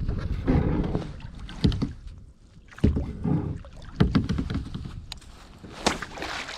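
Handling noises aboard a kayak: irregular knocks and thumps against the hull, with rustling in between.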